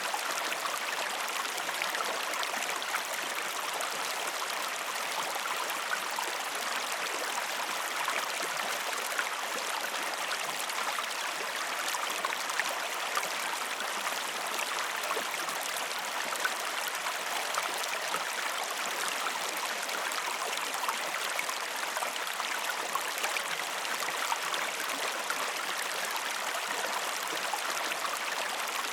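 River water flowing steadily, a continuous rushing with small splashes and gurgles.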